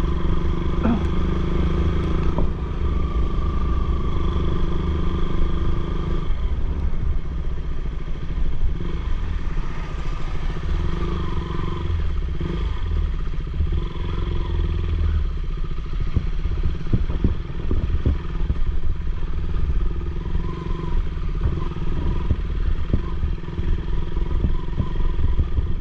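Motorcycle engine running steadily under way, with low road rumble and scattered small rattles.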